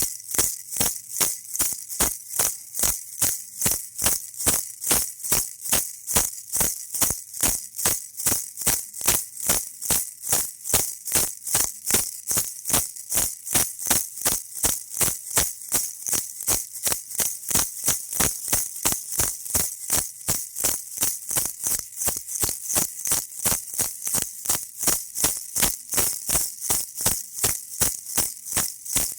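Baby rattle shaken in a steady, even rhythm, about three shakes a second, each shake a bright, high rustle of beads.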